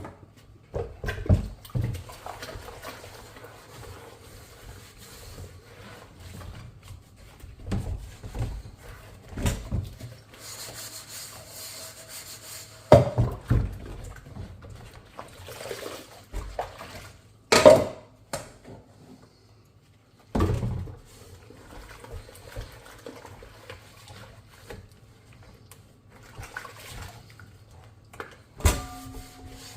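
Dishes being washed by hand in a sink: water swishing and splashing, with a short stretch of running water or hiss about a third of the way in. Several sharp clinks of dishes knocking together ring on briefly; the loudest come about halfway through.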